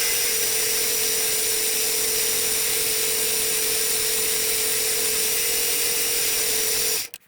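Mini lathe running steadily with a constant motor whine, machining a piece of aluminium bar into a knob; it cuts off abruptly near the end.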